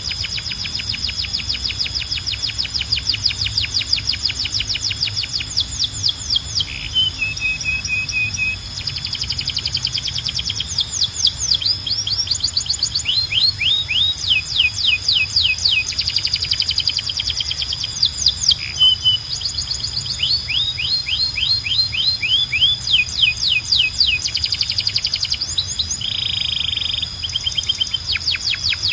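Domestic canary singing a long, continuous song made of rapid trills: runs of fast, repeated high notes broken by brief pauses, with a few short buzzy rolls and a steady high tone underneath.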